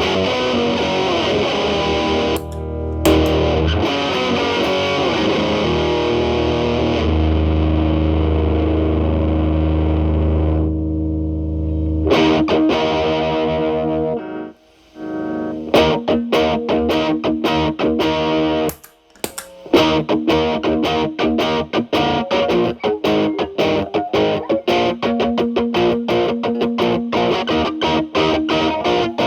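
Electric guitar (Telecaster) played through an MI Audio Crunch Box distortion pedal into a Marshall Valvestate amp's clean channel, the pedal's gain at maximum and cleaned up with the guitar's own volume. Long ringing distorted chords for about twelve seconds, then, after two short breaks, fast rhythmic picking with sharp attacks.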